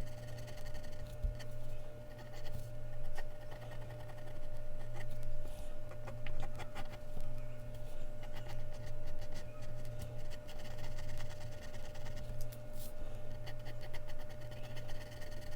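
Mechanical pencil scratching across Bristol paper in quick, irregular drawing strokes, over a steady low hum.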